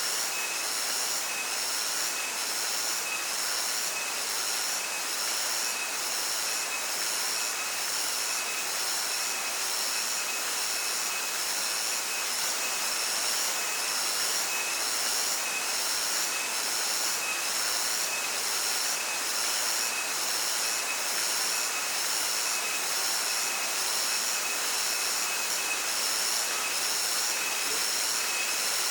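Stream water rushing steadily, with insects chirping in a regular high-pitched pulse about once a second.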